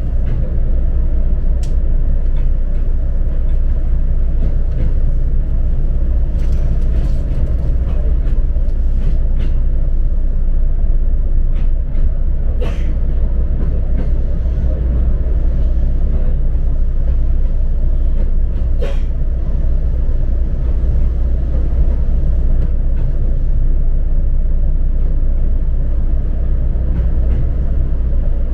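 Steady running rumble of a train heard from inside the carriage, wheels on rail, with a few sharp clicks here and there.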